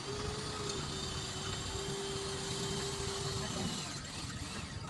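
A machine running steadily with a constant whine that fades out a little before the end, over a wide noisy hiss.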